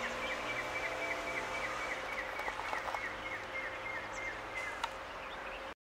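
Dual-fuel diesel-CNG DEMU train running away down the line, heard as a distant low, steady rumble, with a rapid series of short high chirps, about four a second, over it. The sound cuts off suddenly near the end.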